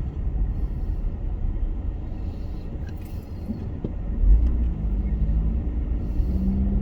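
Car driving, a steady low road and engine rumble heard from inside the cabin. About four seconds in the rumble grows louder and a low engine hum comes up and strengthens near the end.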